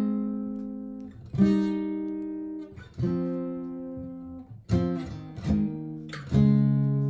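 Martin GPCPA4 steel-string acoustic guitar strumming chords, each left to ring and fade before the next, about one every one and a half seconds, with a few quicker strums near the end.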